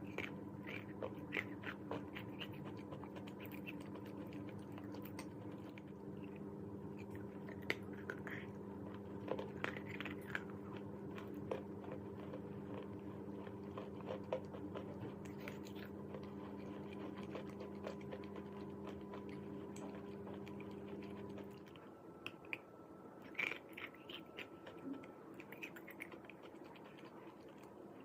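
Chalk being bitten and chewed, with scattered crisp crunches. A steady hum sits underneath and cuts off suddenly about three quarters of the way through.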